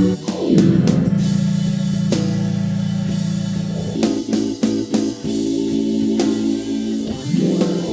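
Rock band music: held guitar chords over bass and drums, with sharp drum hits throughout and a sliding guitar note near the start and again near the end.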